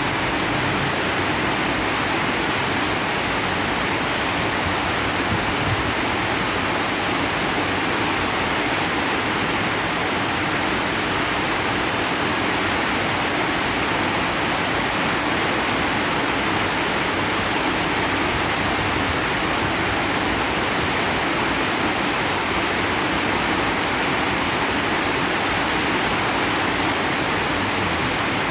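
Steady rain falling on a zinc sheet roof, an even, unbroken rush of noise with no single drops or gusts standing out.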